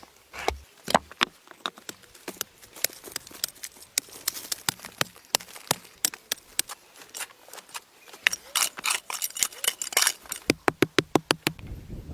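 Irregular sharp knocks and clicks, with a quick run of them, several a second, near the end.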